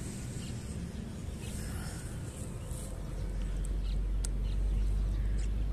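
Open-air background with a steady low rumble that swells from about halfway through. Over it come a few short, faint bird chirps and a single sharp tick about four seconds in.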